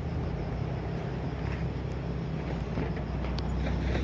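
Truck engine running with a steady low drone that grows a little louder near the end.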